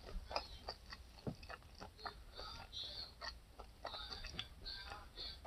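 A person chewing and biting food close to the microphone, heard as a string of faint short clicks.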